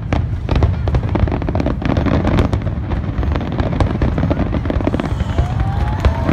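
Aerial fireworks display: a dense, continuous barrage of shell bursts and crackling, the reports overlapping one after another with a heavy low rumble underneath.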